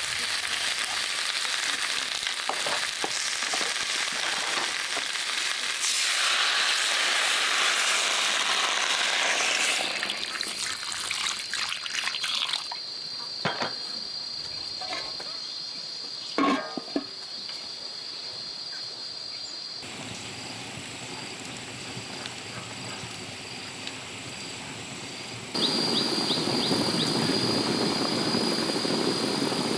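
Food frying, a dense crackling sizzle that is loudest in the first ten seconds, followed by several abrupt changes to quieter stretches with scattered clicks and taps and a steady high tone.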